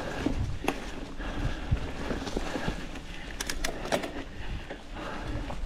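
Specialized Status 160 mountain bike rolling down a dirt trail: wind buffeting the camera microphone over a rough tyre rumble, with sharp clacks and rattles from the bike, a cluster of them about three and a half seconds in.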